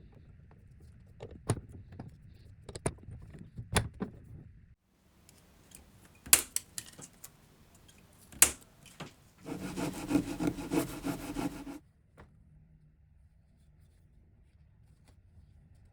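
Metal parts clinking and clicking as they are handled, with two sharp clacks, then a whirring, grinding run of about two seconds with a fast rhythmic texture.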